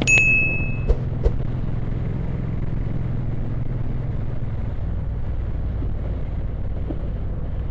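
Motorcycle riding along with a steady low engine and road drone. A short high-pitched beep sounds right at the start, and two sharp clicks follow about a second in.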